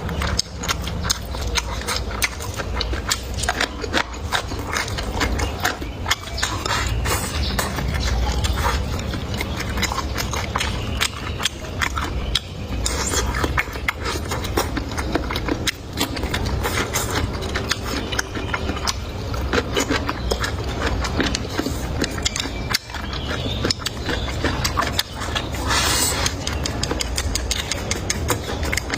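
Close-up eating sounds: a person chewing food near the microphone, with a dense, irregular run of small crunching clicks over a low rumble.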